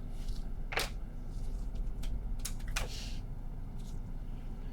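Trading cards and plastic card holders being handled on a table: a few light clicks and a short rustle, over a steady low hum.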